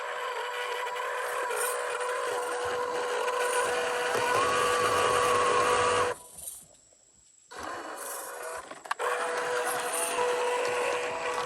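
Small electric motor and plastic gears of a 1/12-scale MN128 RC Jeep whining as it drives, the pitch rising as it speeds up. The motor stops about six seconds in, starts again a second and a half later, and there is a sharp click near nine seconds.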